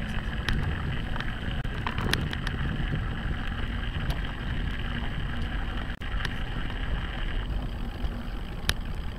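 Steady wind and road rumble on a camera mounted on the handlebars of a bicycle being ridden, with a few scattered sharp ticks.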